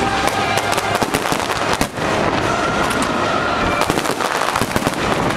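Aerial fireworks bursting close overhead in quick succession: a dense, unbroken run of bangs and the crackle of glittering crackling stars.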